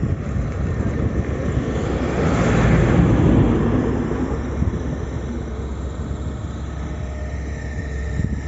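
Heavy vehicle engine running, growing louder to a peak about three seconds in and then easing back to a steady rumble.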